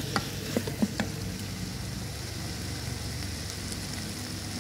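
Beef, curry spices and tomato sizzling in the non-stick inner pot of an electric pressure cooker. A wooden spoon stirs and knocks against the pot a few times in the first second, then the steady sizzle goes on.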